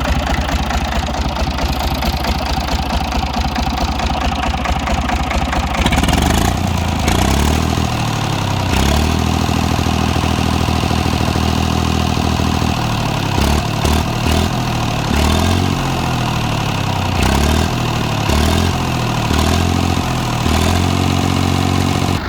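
Tractor engine idling steadily, then revved up and let back down repeatedly from about six seconds in.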